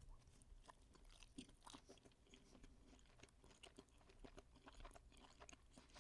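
Faint close-up chewing of a mouthful of food, a scatter of small irregular clicks and crunches.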